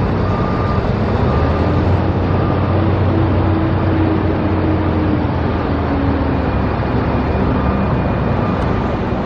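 Road traffic noise with a heavy vehicle's engine drone that swells and fades as it passes. A faint beep repeats about once a second during the first few seconds.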